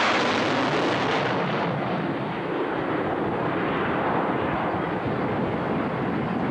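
Jet fighter's engine during a display pass: a loud roar, harshest in the first second or two, then steady.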